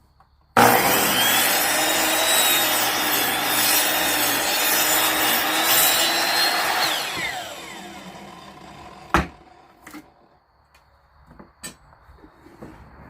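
Electric power saw switched on, its whine rising as the motor spins up, then running and cutting wood for about six seconds. It is switched off and winds down with a falling whine, and a sharp knock follows a little later, with a few lighter taps.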